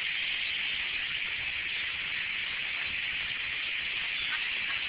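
Steady, dense chorus of a huge flock of blackbirds, thousands of birds calling and chattering at once so that the calls merge into one continuous high din.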